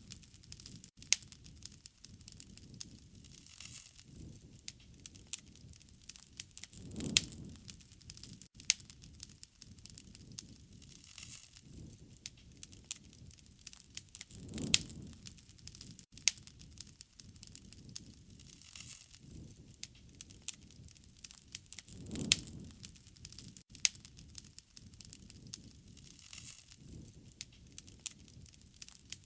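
Wood fire crackling, with many sharp pops and snaps throughout, and a low soft whoosh that swells and fades about every seven or eight seconds.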